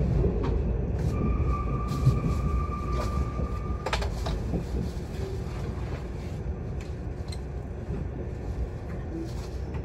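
Rumble of a Mugunghwa-ho passenger train heard from inside the carriage, slowly easing off as the train runs into a station. About a second in, a steady high-pitched whine sounds for nearly three seconds and is cut off by a sharp clack, with a few lighter clicks afterwards.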